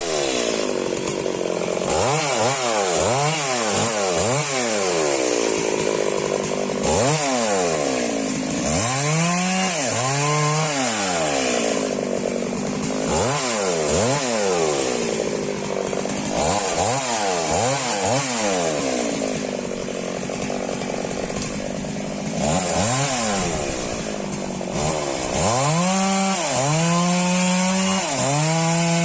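Two-stroke petrol chainsaw being revved over and over, its engine pitch rising and falling with each throttle blip, then holding a steadier speed near the end.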